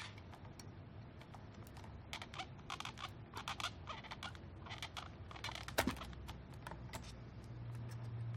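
Faint, irregular light clicks and taps from hands working on the ventilator's electronics: an ESM circuit board being unplugged from the control board's pins and lifted out. A faint low hum runs underneath.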